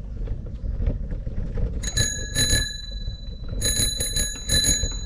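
Bicycle bell rung in two quick bursts: a few rapid dings about two seconds in, then a longer run of dings a second later, each ring fading out.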